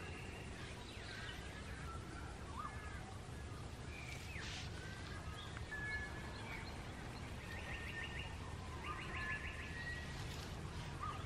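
Several wild birds calling: scattered short whistles and chirps, and two quick trills of rapidly repeated notes about two-thirds of the way in, over a low steady rumble.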